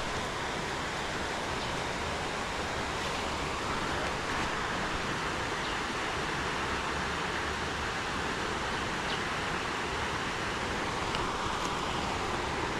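Steady rush of water falling and running over rocks at a waterfall.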